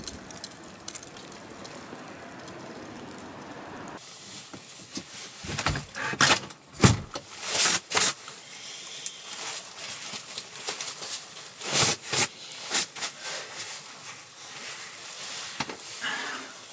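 A steady hiss, then after an abrupt change a string of irregular sharp clicks and knocks, like objects being handled and set down.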